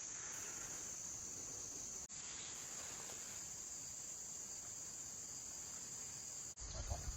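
Steady high-pitched drone of a chorus of insects, with a low rumble joining near the end.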